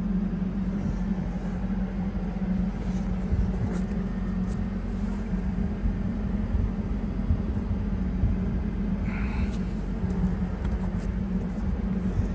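An engine running at a steady idle, a low even drone, with a short higher-pitched sound about nine seconds in.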